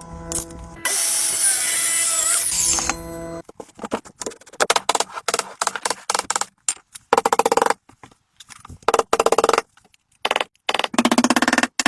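A power tool, drill-like, running loudly for a couple of seconds, then started and stopped in many short bursts.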